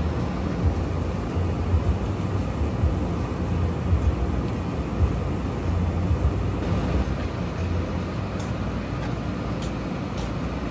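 A train's engine running with a steady low rumble.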